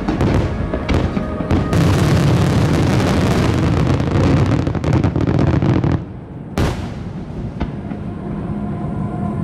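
Large aerial fireworks bursting in rapid succession, with deep booms and dense crackle. After about six seconds it thins out to one sharp bang, with broadcast festival music playing underneath.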